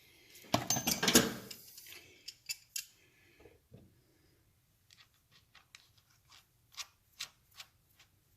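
Metal clicks and scrapes of pliers at work on the steel lock-tab washer behind the front sprocket nut, trying to bend a tab over. A dense clatter of metal handling about half a second in, lasting over a second, then a string of sharp single clicks near the end.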